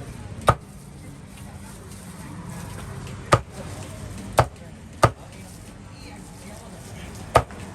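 Meat being chopped: five sharp chops at uneven spacing, a second or more apart.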